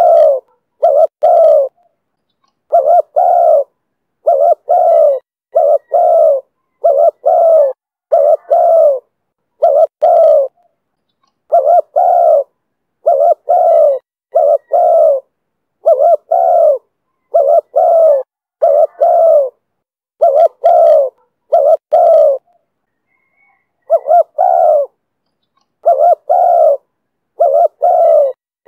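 Spotted dove cooing: loud repeated phrases of two or three low coos, about one phrase every second, with short silent gaps and one longer pause near the end. It is the call type that Vietnamese dove keepers call the 'thổ thúc bổi' voice.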